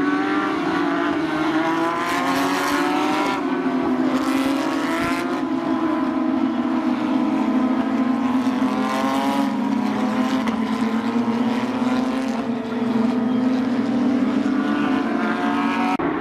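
Porsche 911 GT3 Cup race cars' 3.8-litre naturally aspirated flat-six engines accelerating past one after another. Each car's engine pitch climbs and then drops back at an upshift, over a steady low drone.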